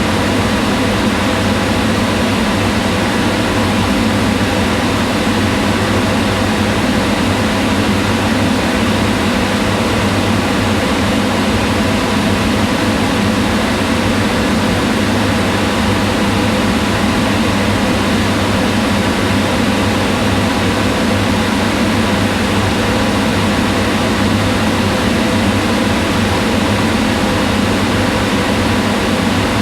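Kitchen range hood fan running steadily: an even whooshing of air with a low motor hum.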